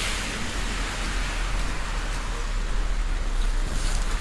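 Heavy rain pouring down: a steady, even hiss with a low rumble underneath.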